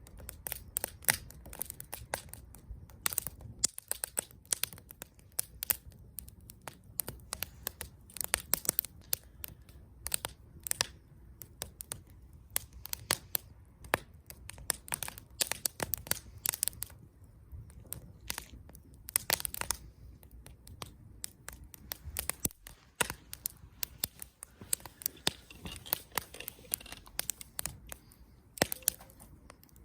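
Wood campfire crackling and popping: dense, irregular sharp snaps from the burning wood, some louder pops standing out, over a low steady rush of the flames.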